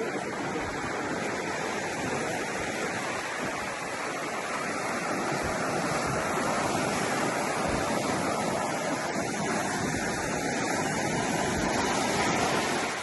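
Ocean surf: a steady rushing wash of waves that swells over the middle and cuts off suddenly at the end.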